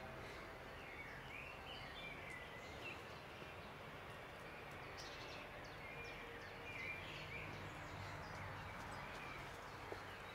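Faint birdsong in woodland: scattered short chirps and trills from several small birds over a steady background hiss.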